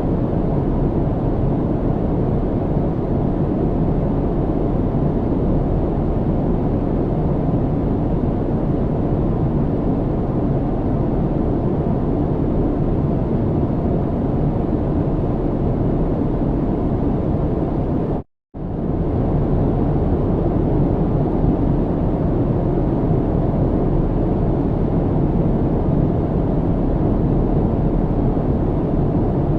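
Airplane cabin noise in flight: a steady, even rumble with its weight in the low end. About eighteen seconds in it cuts out to silence for a split second, then comes straight back.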